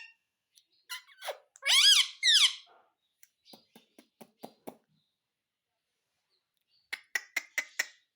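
Ringneck parrot giving two shrill, arching calls in quick succession about two seconds in, then a few soft clicks and, near the end, a quick run of short clicking notes.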